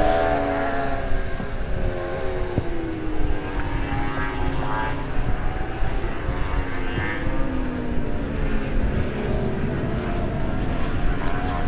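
Superbike racing motorcycle engines passing at speed. One engine's pitch falls slowly over the first few seconds, then other bikes come and go.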